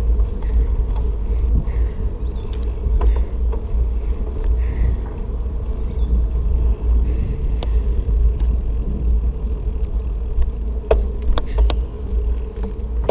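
Wind buffeting the microphone on a moving Rad Mini e-bike, a heavy low rumble, with the electric motor's steady hum underneath. A couple of sharp clicks or knocks come near the end.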